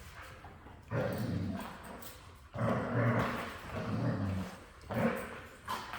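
Young Golden Retriever growling in several rough, low bursts, each up to about a second long, while mouthing and biting at its leash.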